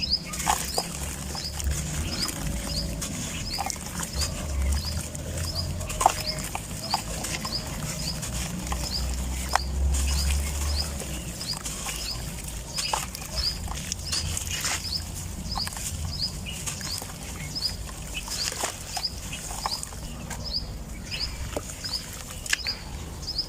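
Dry, crispy sand-cement lumps crumbling and crunching, a patter of falling grains broken by scattered sharp cracks. A faint high chirp repeats about twice a second throughout.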